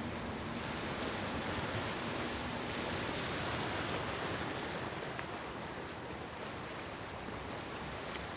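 Steady wash of water and wind, like waves lapping, swelling a little in the middle and easing off, with a faint low hum in the first few seconds.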